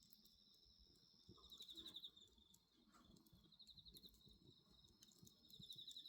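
Faint crickets chirping: a steady high insect drone with three short pulsed trills about two seconds apart, over scattered soft pops and crackles from a wood bonfire.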